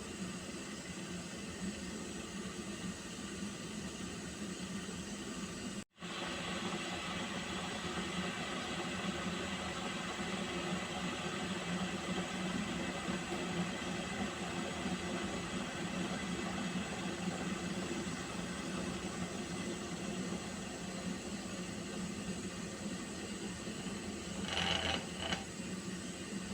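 Water heating in a pot on a stove: a steady hiss over a low hum. The sound cuts out for an instant about six seconds in, and two brief louder crackles come near the end.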